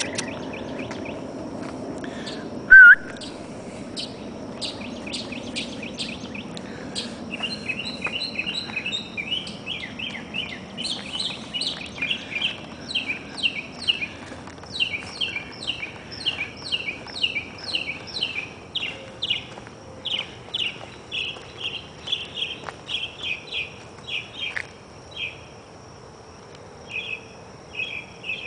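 Songbirds chirping in quick runs of short, repeated notes, with a steady high-pitched insect trill behind them. A single loud, brief squeak comes about three seconds in.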